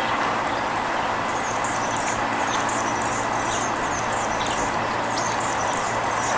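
A small bird giving a regular series of short, high chirps, about two or three a second, starting about a second and a half in, over a steady rushing background noise.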